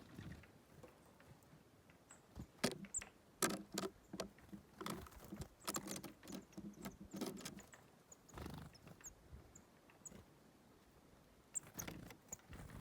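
Small birds pecking and tapping at dried sunflower seed heads on a bird table: irregular quick clicks and knocks, bunched in the middle and again near the end, with a few brief high chirps.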